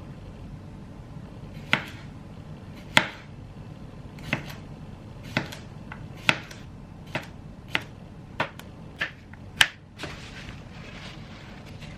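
Kitchen knife chopping on a cutting board: about ten separate sharp knocks, slow at first and coming faster, stopping about ten seconds in.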